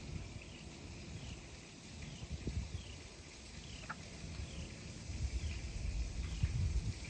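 A high, short falling chirp repeated about every 0.7 seconds, from a small animal calling. It plays over an uneven low rumble that swells twice.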